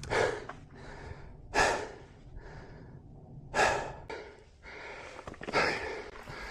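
A person breathing heavily, four deep breaths about two seconds apart.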